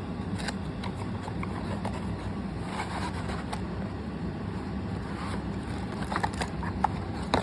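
Toy packaging being opened by hand: scattered faint rustles and clicks of cardboard and plastic over a steady low background hum.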